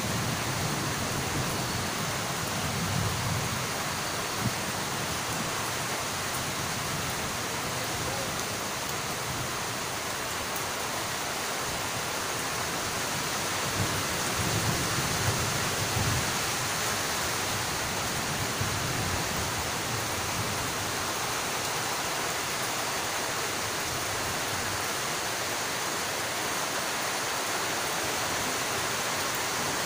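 Heavy rain falling steadily, with low rumbles of thunder near the start and again about halfway through.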